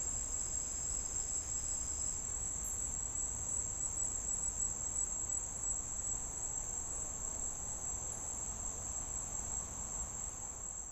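A steady, unbroken high-pitched chorus of insects, like crickets chirring, over a low steady rumble.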